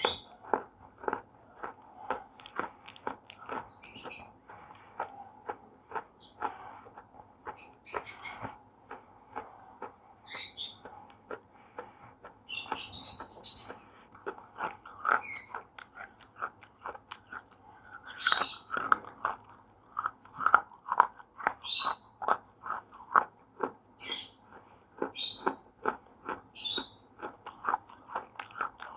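Slate pencils being bitten and chewed close to the microphone: a steady run of small crisp crunches, with a sharper snapping bite every few seconds.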